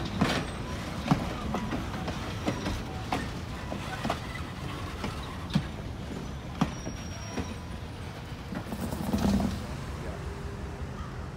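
Train rolling by, its steel wheels clicking irregularly over rail joints above a steady low rumble, with a brief louder swell about nine seconds in.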